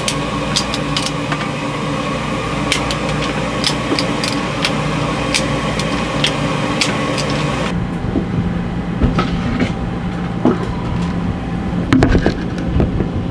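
Hand tools knocking and clicking against a boat engine's exhaust elbow while it is worked loose, many sharp knocks in quick irregular succession over a steady mechanical hum. About eight seconds in the sound turns duller and the knocks become few.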